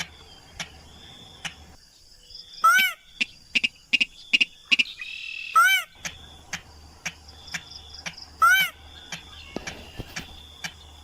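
Lure recording of a rail (sintar / mandar padi) calling: a short, arched, sharp call given three times, about three seconds apart, with rapid clicking ticks between the calls. Insects buzz steadily behind it.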